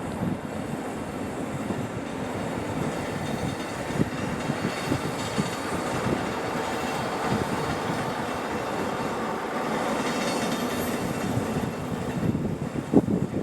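Train running past, with steady rolling noise and wheels clacking irregularly over the rail joints. A few louder knocks come near the end, then it fades away.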